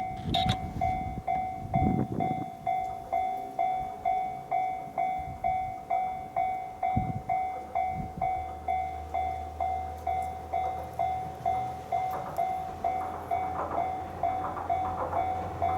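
Japanese railway level-crossing warning alarm dinging steadily, about two strokes a second, as a diesel train approaches. There are low rumbles and knocks early on, and a steady low engine hum comes in about halfway.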